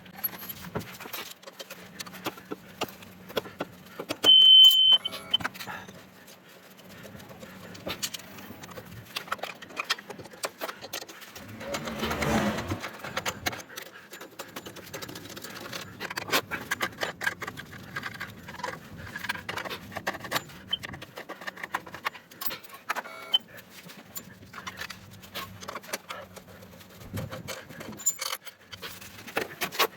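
Scattered light metallic clinks and knocks of tools and parts being handled, with one short high beep about four seconds in and a brief rushing noise around twelve seconds in.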